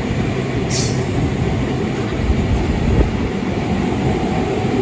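Train hauled by steam locomotive 3801 running at speed, heard from on board: a steady, loud rumble of wheels and carriage. There is a brief hiss a little under a second in.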